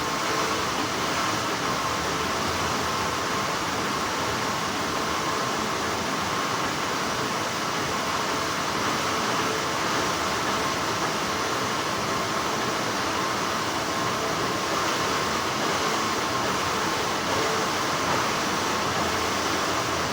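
Textile factory machinery running with a steady, continuous hum and a faint thin whine.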